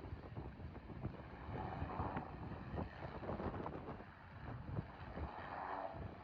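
Wind buffeting the microphone in uneven gusts, with a faint low rumble behind it.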